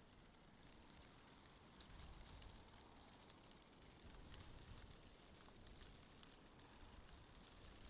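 Faint wind, a steady low rumble with scattered light ticks above it.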